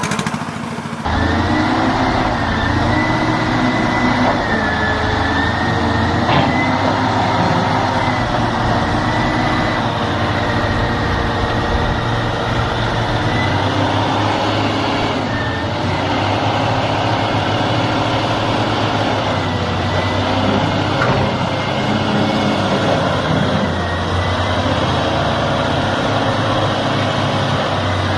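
Heavy vehicle engine running steadily, with a high, slightly wavering whine above the engine note.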